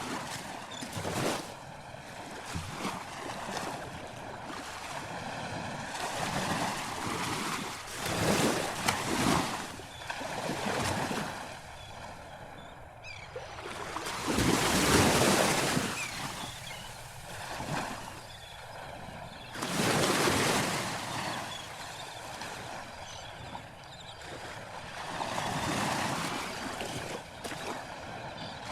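Sea surf: waves washing in and breaking, the sound swelling and ebbing every few seconds, with the biggest wave about halfway through.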